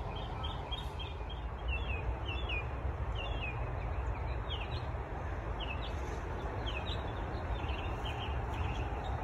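Small birds chirping, many short high notes repeated irregularly throughout, over a steady low rumble.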